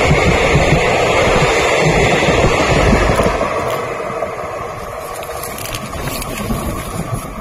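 Passenger coaches of an express train passing close at speed, their wheels running loudly on the track. About three seconds in, the last coach goes by and the noise drops, fading steadily as the train moves off into the distance.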